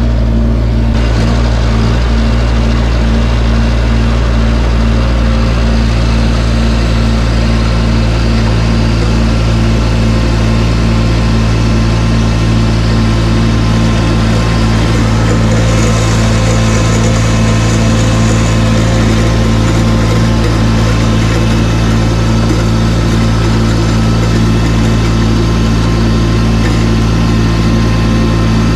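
Tractor engine with a snow blower attachment running steadily at constant speed, a continuous engine hum with a rushing noise over it.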